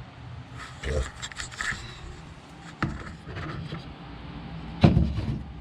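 Tools and metal parts being handled on a workbench: scattered light clinks and knocks, a sharp click about three seconds in and a louder thump near the end, over a low steady hum.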